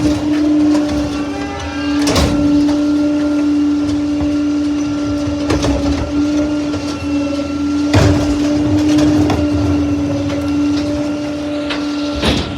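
Garbage truck at work: a steady hydraulic whine with loud metal bangs about four times, as of a trash bin being lifted, shaken out and set down.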